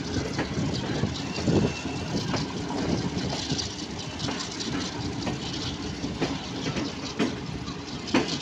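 Passenger train coach running along the track: a steady rumble of the carriage with irregular clacks of the wheels over rail joints, a few of them louder.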